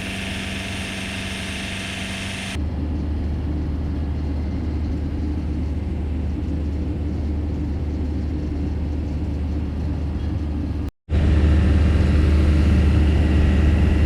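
Scania V8 truck engine running steadily while the cement tanker is being discharged, a steady low hum. It changes abruptly about two and a half seconds in, drops out briefly near eleven seconds, then returns louder.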